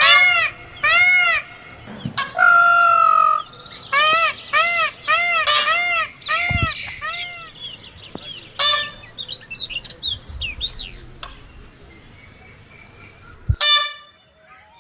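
Birds calling: a run of short calls repeated a few times a second, each rising then falling in pitch, broken by one longer even call. Quick chirps and rising sweeps follow about halfway through, then the calling thins out and cuts off abruptly near the end.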